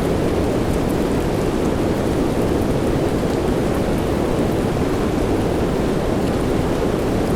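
Steady soft rain: a dense, even hiss, heavy in the low end, with faint scattered drop ticks and no change in level.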